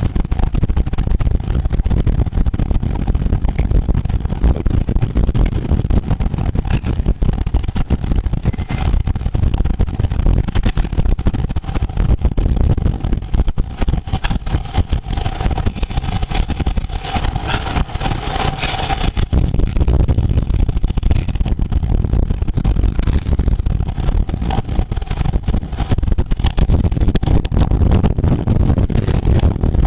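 Wind rushing over the microphone while moving along the road, a heavy, continuous low rumble. A steady hum with a higher hiss joins in and grows louder for a few seconds around the middle, then fades.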